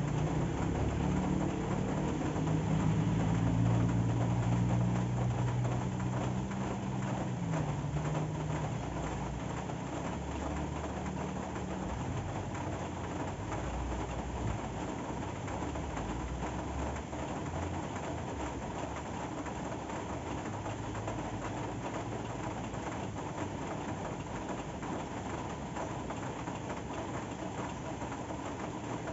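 Steady rain falling, with a motor vehicle's engine passing at the start: a low hum that drops in pitch about seven seconds in and fades away.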